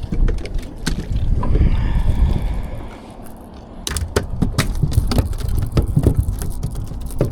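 Wind rumbling on the microphone, with a run of sharp knocks and taps on the boat that comes thick and fast from about four seconds in.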